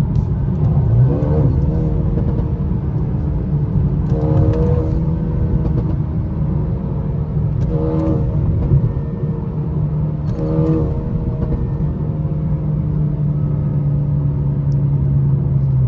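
Mercedes-AMG A35's turbocharged four-cylinder engine on its stock exhaust, pulling under acceleration. The revs climb and drop back at gear changes every three to four seconds. Short sharp exhaust crackles come at some of the shifts.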